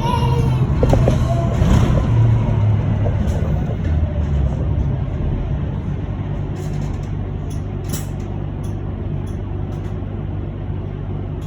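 Cabin noise inside an electric bus: a steady low hum and rumble, with a few short clicks or knocks. The noise is louder in the first few seconds and then settles.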